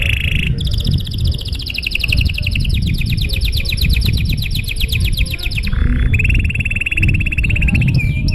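Domestic canary singing a long, continuous song of rapid trills: one fast rolling trill of a few seconds, then a second, lower trill. A low steady rumble runs underneath.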